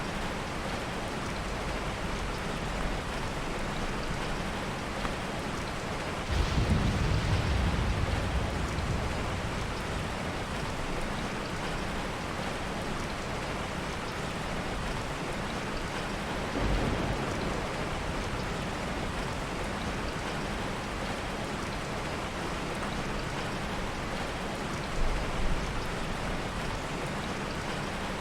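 Heavy rain falling steadily, with soft thunder rumbling low three times: a sudden roll about six seconds in that fades over a couple of seconds, a shorter one around sixteen seconds, and a brief double rumble near twenty-five seconds.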